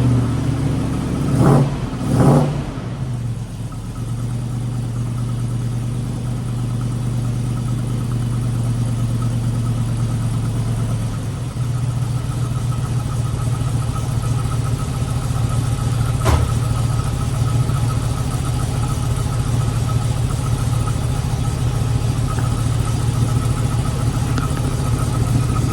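1967 car's engine with exhaust headers running just after a true cold start, having sat for a couple of weeks. It is revved twice in the first few seconds, then settles into a steady idle, with the idle shifting slightly about eleven seconds in and one sharp click a little past halfway.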